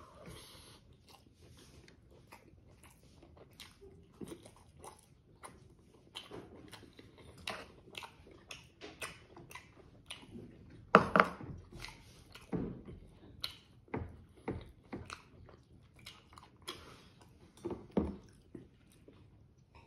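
Close-up eating sounds of a person chewing boiled pork and rice with the mouth open: a string of wet smacks and clicks, with a louder smack about eleven seconds in.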